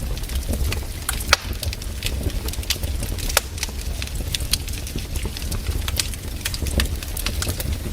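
Campfire burning, the wood crackling and popping in irregular sharp snaps over a low steady rumble, with a few louder pops about a second and three seconds in.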